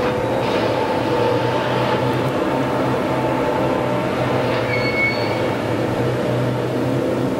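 Rail works train running, a steady mechanical drone with a low hum. A brief high-pitched squeal comes about five seconds in.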